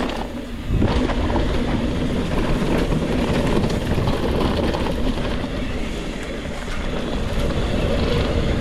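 Mountain bike rolling fast over a rough dirt trail: a steady rumble of tyres on dirt with the bike rattling.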